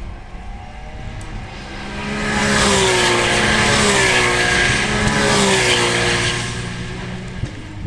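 Racing cars' engines passing at speed on a circuit. The sound swells about two seconds in, holds loud for about four seconds with the engine pitch dipping and rising, then fades.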